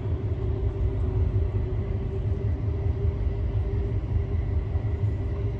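Train running along the track: a steady low rumble with a steady hum above it.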